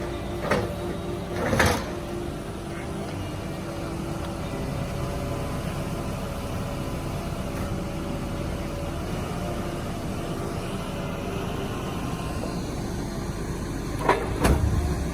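Heavy machine's engine running steadily, with a few sharp knocks: two near the start and two near the end.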